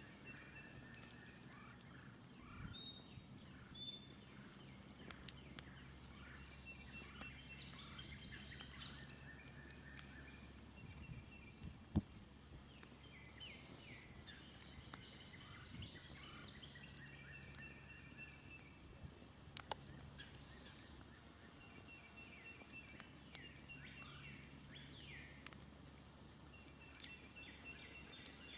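Faint songbirds chirping and trilling again and again, with a few sharp pops from a smoldering campfire, the loudest about twelve seconds in. A low steady hum runs underneath.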